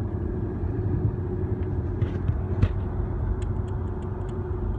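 Car driving on the road, heard from inside the cabin: a steady low rumble with a steady hum. There is a single knock about two and a half seconds in, and a run of light high ticks, several a second, over the last second or so.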